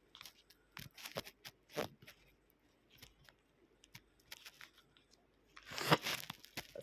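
Raw vegetables being bitten and chewed: quiet, irregular crunches and clicks, with a longer, louder crunching rustle near the end.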